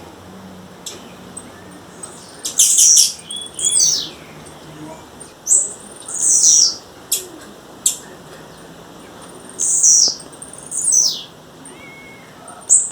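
Blue-black grassquit (tiziu) calling: short, high notes that sweep downward, repeated every second or two, with a few sharp clicks in between.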